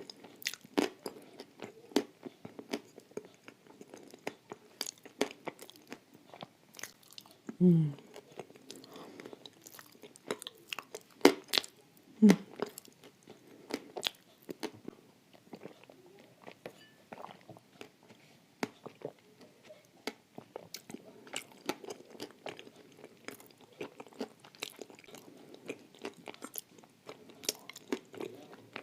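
Close-up crunching and chewing of dry Turkestan edible clay eaten with blue Uzbek clay paste: many sharp, irregular crunches as chunks are bitten and chewed.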